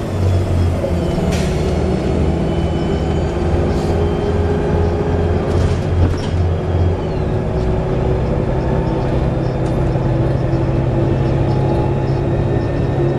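Volvo B7TL double-decker bus's diesel engine and Allison automatic gearbox running, heard from on board. A low throb in the first half gives way to a steadier, higher drone about seven seconds in, with a few short hisses along the way.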